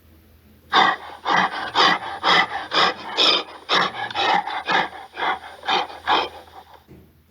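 Gorilla giving a rapid run of short, noisy breaths, about two to three a second, starting just under a second in and stopping shortly before the end.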